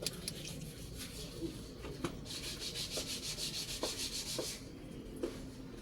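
Rapid, rhythmic scraping for about two seconds in the middle, several strokes a second, with a few scattered clicks around it.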